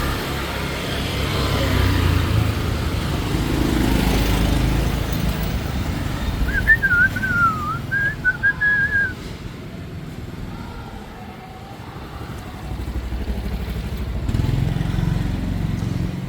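Hanoi street traffic: motorcycles and other vehicles running and passing. Their rumble is strongest at the start and again near the end. In the middle comes a brief, high, wavering whistle.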